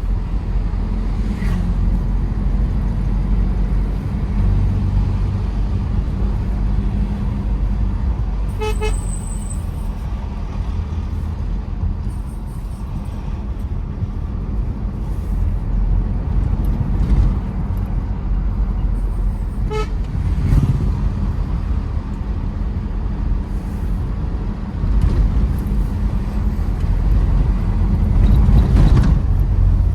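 Tata Safari Storme SUV's 2.2-litre diesel engine and tyres giving a steady low rumble while driving, with two short horn toots, about nine and twenty seconds in.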